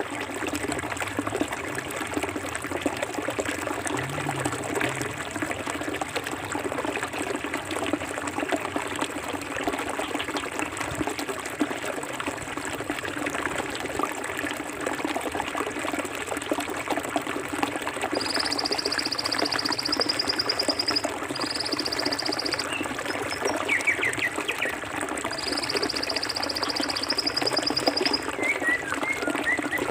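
Clear forest stream running and trickling steadily over rocks. In the second half a high buzzing trill starts and stops three times, and short chirps sound near the end.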